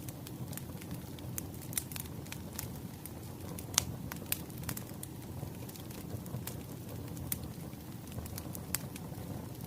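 Wood fire crackling: scattered sharp pops over a low, steady rumble of burning logs, with one louder pop about four seconds in.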